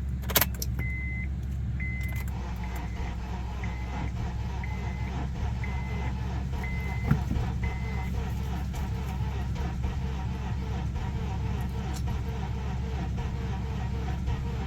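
A click, then the car's warning chime beeping eight times about once a second, over the steady low hum of the jumping truck's engine idling.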